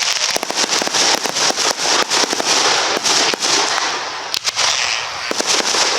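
Aerial fireworks display: dense crackling with many sharp pops, easing slightly about four seconds in.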